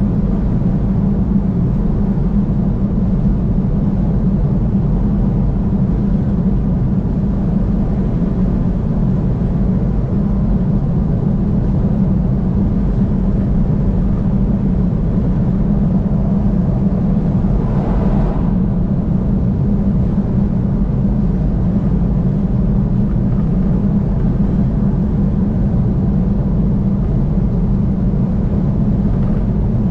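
Steady low rumble of a car driving at highway speed, road and engine noise without a break. About eighteen seconds in, a brief higher hiss swells and fades.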